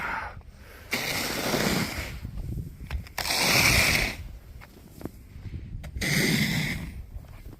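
Snow being scraped off a car, in three long scraping strokes with short pauses between them.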